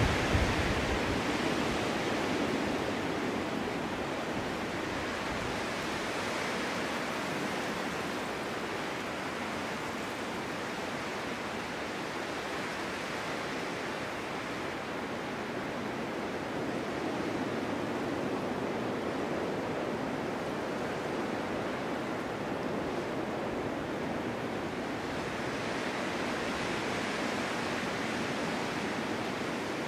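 Winter storm wind blowing, a steady rushing that slowly swells and eases: stronger at the start, lower through the middle and rising again near the end.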